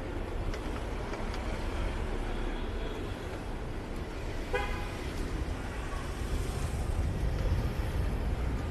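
Steady city traffic and road rumble heard from a moving bicycle, with one short car horn toot about halfway through.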